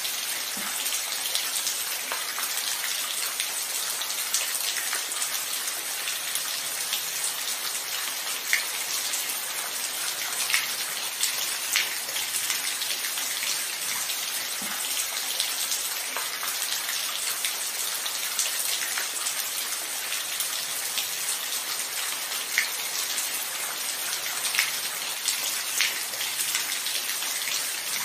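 Steady rain falling, an even hiss with scattered louder single drops ticking close by.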